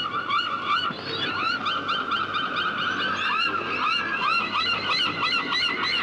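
A flock of gulls calling all at once: many short, arched cries overlapping in a dense, continuous chorus.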